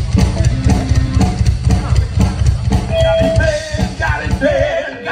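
Live rock band playing at full volume: a drum kit with rapid, dense low drum hits under the rest of the band. A voice comes in singing over it about three seconds in.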